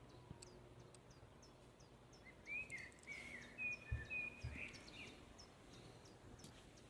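Faint birdsong: a short phrase of whistled chirps in the middle, over a faint high call that repeats a few times a second. Two soft low thumps come near the middle.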